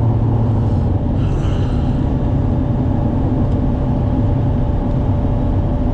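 Duramax diesel pickup's engine running steadily as the truck is driven, a continuous low drone.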